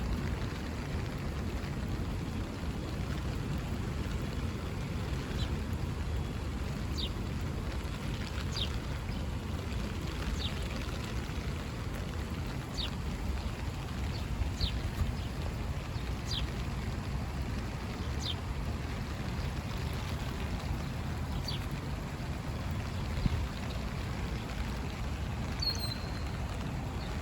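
Steady rain noise with a small bird repeating a short, high, downward-sliding chirp every second or two, and one slightly longer high note near the end.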